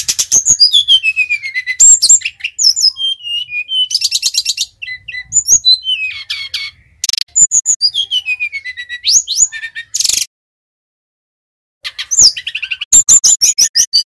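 Sikatan rimba dada coklat (brown-chested jungle flycatcher) singing loudly: long falling whistles alternate with fast rattling trills. The song breaks off for about a second and a half near ten seconds in, then resumes with rapid trills.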